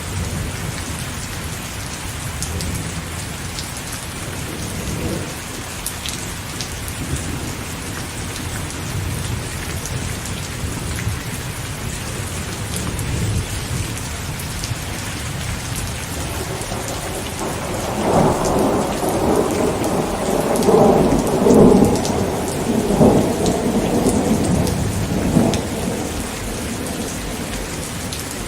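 Steady rain falling, with a low rumble of distant thunder. About two-thirds of the way through, a louder roll of thunder rumbles for several seconds, then fades back under the rain.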